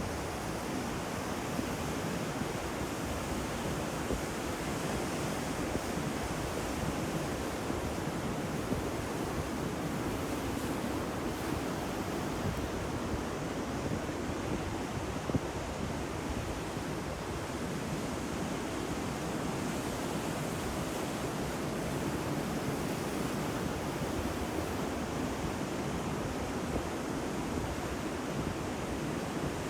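Ocean surf breaking steadily, a continuous wash of waves with no distinct single crash standing out.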